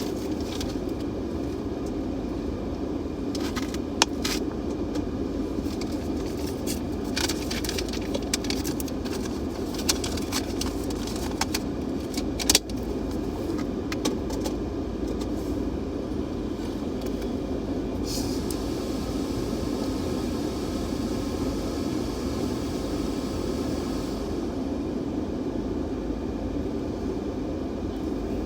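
Steady rumble of a car's engine and cabin, with scattered clicks and knocks and a faint hiss in the middle stretch.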